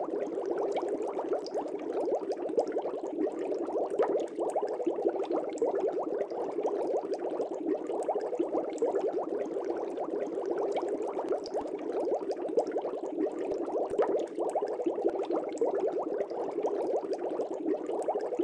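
Air bubbles streaming up through aquarium water, a steady dense bubbling made of many small quick pops.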